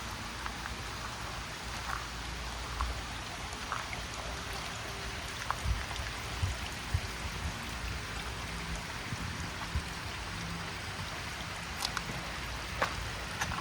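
Steady summer rain falling, with scattered louder drops ticking on nearby surfaces and a few soft thumps about halfway through.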